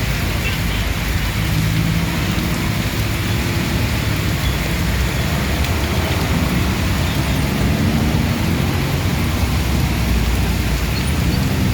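Steady rain falling, with the low rumble of motor vehicles passing on a road underneath it.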